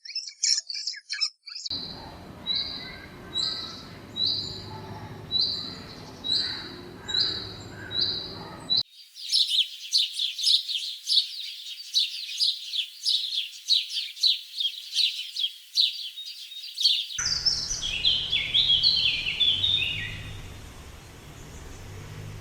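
Birds calling in several short edited clips: first a few quick chirps, then a repeated high note about once every three-quarters of a second, then a dense stretch of fast overlapping chirps, and near the end a run of descending chirps.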